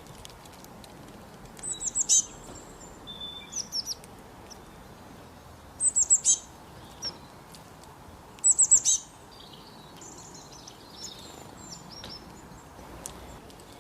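Wild songbirds singing: a loud phrase of four or five quick, high, falling notes comes three times, about two, six and eight and a half seconds in, with softer, scattered chirps between, over a steady background hiss.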